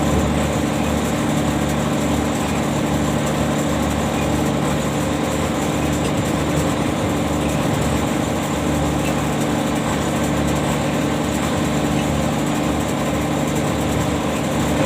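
Ship's deck machinery engine running steadily with a low throb, as used to heave in the anchor.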